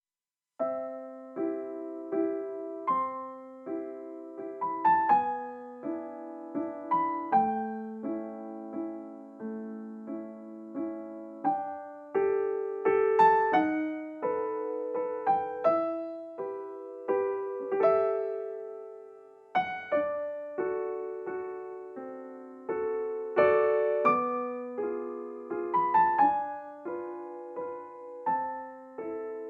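Solo piano music: a gentle melody over repeating chords.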